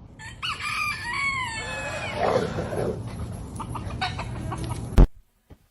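A chicken calling: a quick run of high calls that fall in pitch, then a few lower calls. A sharp knock about five seconds in, then the sound cuts off.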